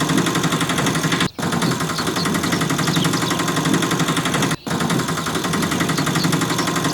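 A steady, rapid, engine-like mechanical rattle, broken off briefly twice.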